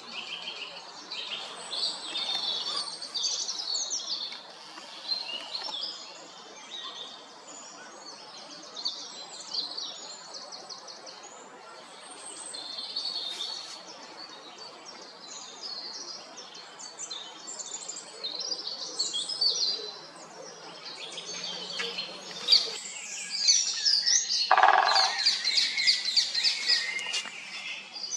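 Several small songbirds singing and chirping at once, many overlapping, quick high-pitched phrases, growing busier and louder in the last few seconds, over a steady outdoor hiss.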